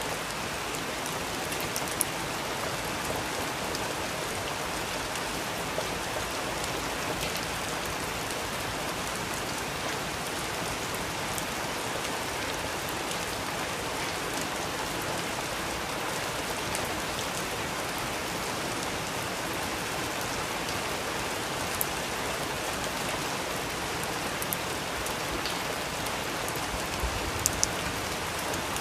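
Steady rain falling on a surface, an even hiss with no let-up, with a few sharp clicks scattered through it.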